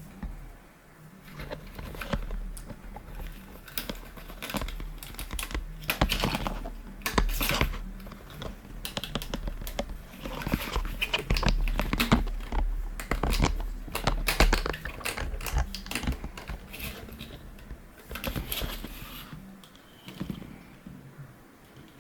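A run of quick, irregular clicks and light clatter of small hard objects, busiest in the middle, over a steady low hum.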